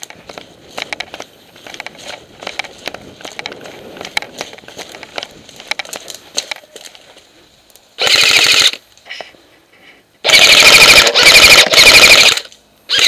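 Airsoft gun firing loud full-auto bursts: a short burst about eight seconds in, a longer burst of about two seconds soon after, and another starting near the end. Before them there are only faint scattered clicks.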